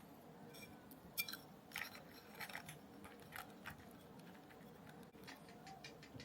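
Small parts and tools being handled during model assembly: a handful of light, sharp clicks and taps, the loudest about a second in, over a faint steady room hum.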